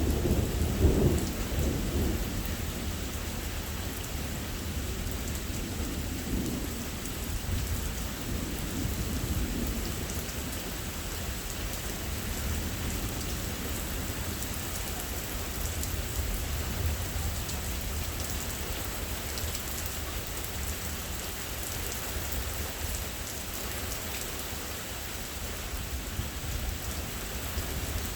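Steady rain falling throughout, with thunder rumbling loudest in the first two seconds and fainter rumbles of thunder about six to ten seconds in.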